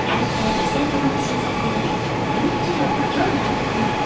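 Sendai City Subway Namboku Line 1000N-series train heard from inside the car while running between stations. There is steady wheel and running noise with a constant tone, and the air conditioning is running.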